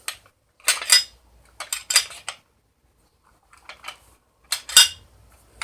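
Metal dust cover of a G&G RK47 AK-pattern airsoft rifle being worked back onto the receiver with a screwdriver: short runs of metallic clicks and scrapes, with a pause of about a second partway through.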